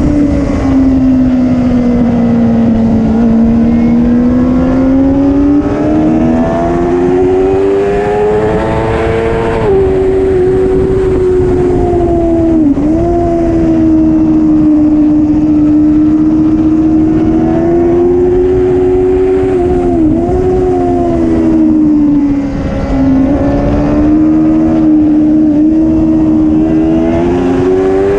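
Superbike racing engine held at high revs, its pitch rising and falling through the corners, with brief sharp dips as the throttle is snapped shut for gear changes.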